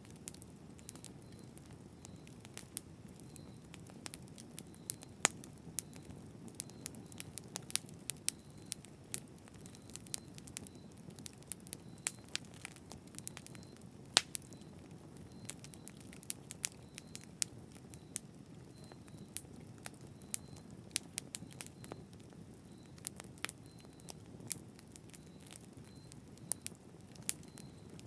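Wood fire burning: a steady low rush of flame with irregular sharp crackles and pops scattered throughout.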